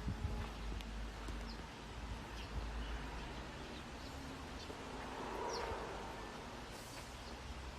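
Faint, short bird chirps scattered over a low steady rumble outdoors.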